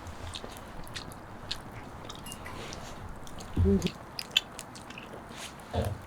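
Someone biting into and chewing food, with small scattered clicks and two brief vocal sounds from the eater, one a little past the middle and one near the end.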